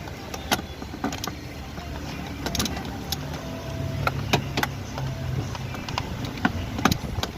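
Ratchet and 10 mm socket working on engine-bay fasteners: scattered sharp metallic clicks and clinks at an uneven pace, over a low background hum that swells for a couple of seconds around the middle.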